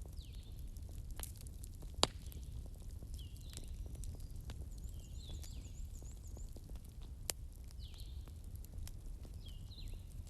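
Fireplace crackling: a steady low rumble with scattered small crackles and two sharper pops, about two seconds in and about seven seconds in. Short, high, falling chirps repeat over it every second or two.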